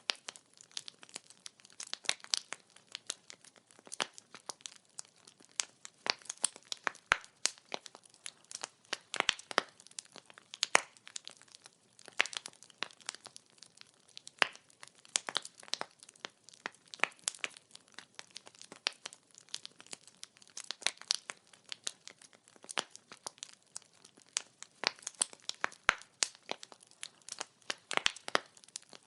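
Burning firewood crackling, with irregular sharp pops and snaps several times a second over a faint hiss.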